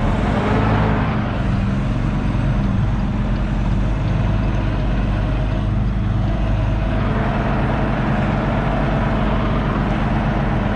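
Semi truck's diesel engine running at low revs with a steady low drone while the truck is manoeuvred at low speed.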